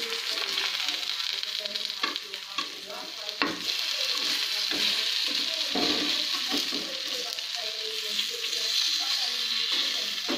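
Potato and banana pieces coated in rice flour, cumin and garlic paste shallow-frying in oil on a flat pan, a steady sizzle with a few sharp clicks.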